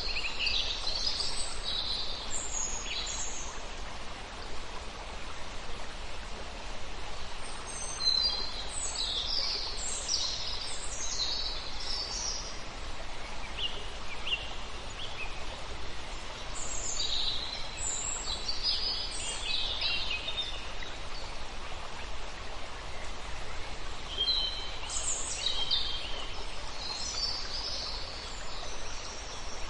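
Birds chirping in scattered spells of quick high calls over a steady rush of running water.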